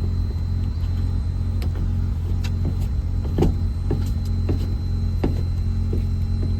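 Mazda RX-7 rotary engine idling steadily on its cold-start high idle, with scattered light clicks over the top.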